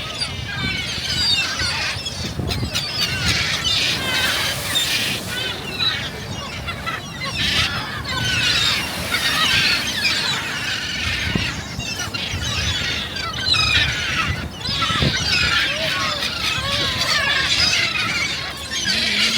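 A large flock of gulls calling all at once: many overlapping short, high squealing cries that never let up.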